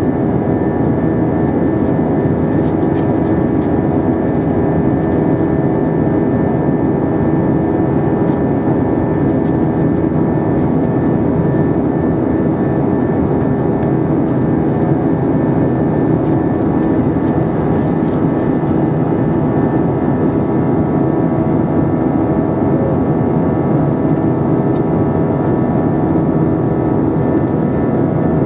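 Steady cabin drone of an Airbus A320 in flight: engine hum with several steady tones over the rush of airflow, holding an even level throughout.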